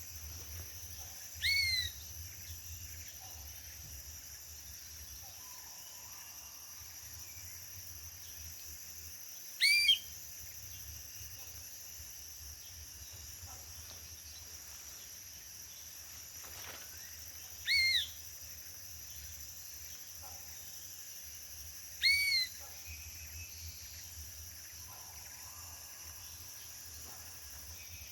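Four short whistled calls, each rising then falling in pitch, spaced several seconds apart, over a steady high-pitched insect drone.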